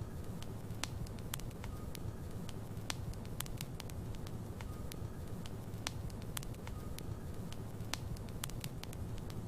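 Logs burning in a fireplace: irregular sharp crackles and pops over a steady low rumble of the fire.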